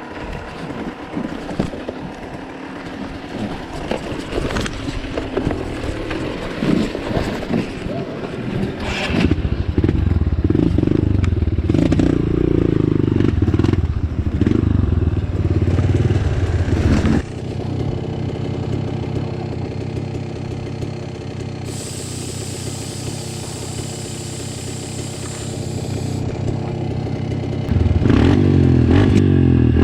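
Off-road motorcycle engine, likely a Yamaha YZ250 two-stroke, running while being ridden, its revs rising and falling with the throttle. It gets louder about a third of the way in, eases to a steadier lower note past the middle, and opens up again near the end.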